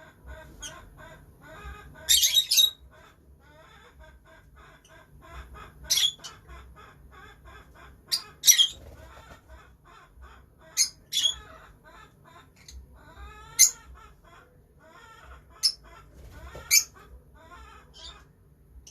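Lovebirds chattering with a steady run of soft chirps, broken every second or two by loud, sharp, shrill calls.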